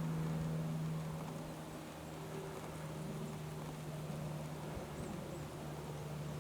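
A steady low mechanical hum with a buzzing tone, over faint background hiss.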